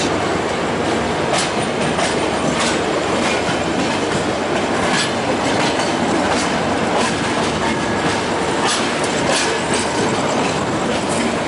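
An express train's coach running at speed, heard from aboard: a steady rumble of wheels on rail with irregular sharp clicks as the wheels cross rail joints and pointwork.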